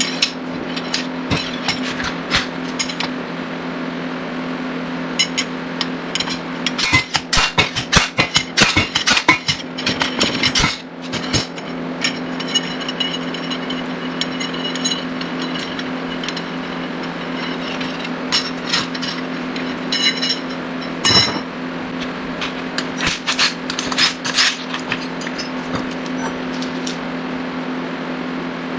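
Slide hammer being struck repeatedly to pull a front wheel bearing hub out of its knuckle: rapid clusters of sharp metal-on-metal knocks, the densest about a third of the way in, with a short metallic ring after some blows, over a steady low hum.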